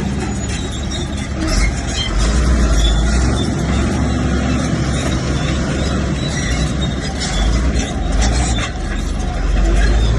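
Crawler bulldozer working, its diesel engine running under load and its tracks clattering, the engine note swelling several times.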